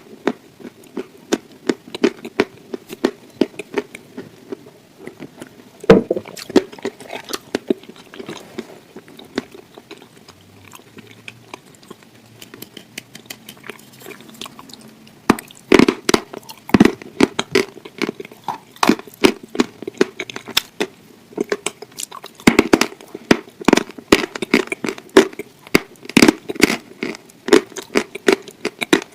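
Close-miked chewing and biting of grilled chicken: many quick irregular clicks and crunches, with one sharp bite about a fifth of the way in and busier chewing through the second half.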